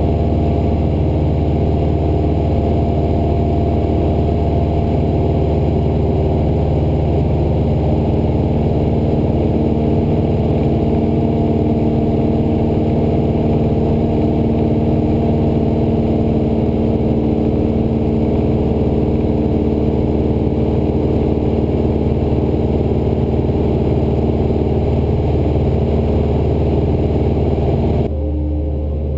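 Cessna 172's piston engine and propeller droning steadily in flight. Near the end the sound drops abruptly in level and loses its higher frequencies.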